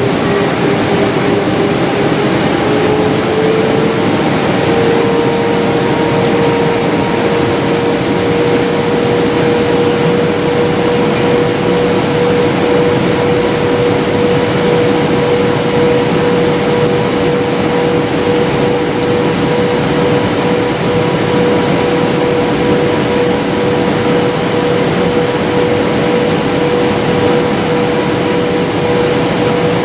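Jet airliner cabin noise: a steady rush of airflow and engine sound with a clear engine tone that rises a little a few seconds in, as thrust is increased, then holds steady.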